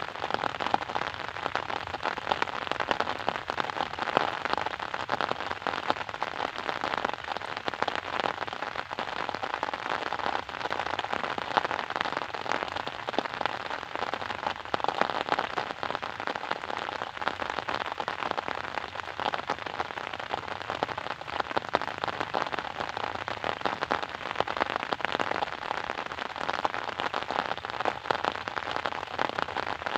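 Steady rain falling, a dense patter of many small drop impacts on a surface.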